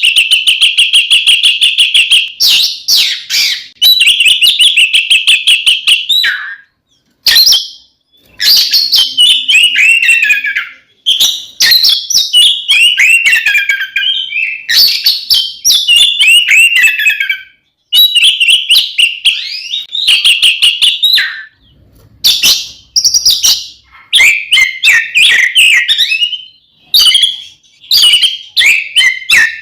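Oriental magpie-robin (kacer) singing loud, continuous song in phrases of rapid trills and slurred notes that fall in pitch, broken by short pauses.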